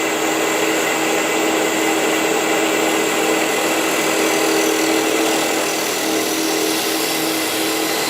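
Wood lathe running steadily with a turning tool cutting the spinning wooden lid, a steady motor hum under the hiss of the cut. The hiss of the cut strengthens about three seconds in.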